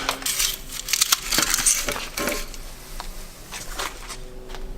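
Metal grinding debris being scraped up and rattled into a container, with dense crunching and sharp clinks that thin out after about two seconds.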